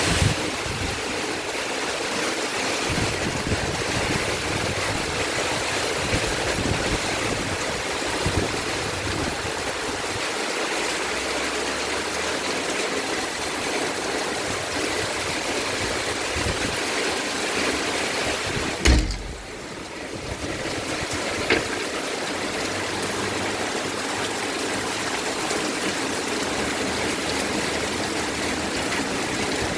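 Heavy monsoon rain pouring steadily in a dense, even hiss. About two-thirds of the way through there is a sharp knock, after which the rain sound drops for a moment before returning, with a smaller click a couple of seconds later.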